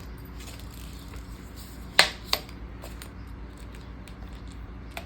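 Small hard clicks and taps of planner items being handled on a table: one sharp click about two seconds in, a softer one right after, and a few faint ticks.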